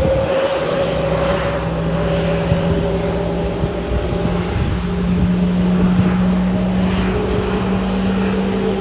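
Airbus A321neo jet airliner on approach to land: a steady engine drone whose low tone steps up slightly about four seconds in.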